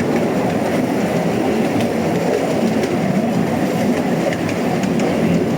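Steady low rumble of a vehicle in motion, with a few faint ticks.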